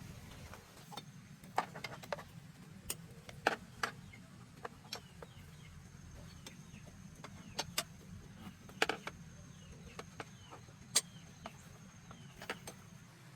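Irregular sharp clicks and knocks of tools on metal, scattered unevenly, over a low steady hum.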